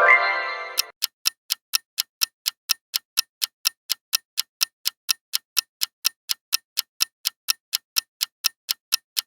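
Clock-tick sound effect of a quiz countdown timer, ticking evenly at about four ticks a second. It opens with a bright chime that fades away over about a second.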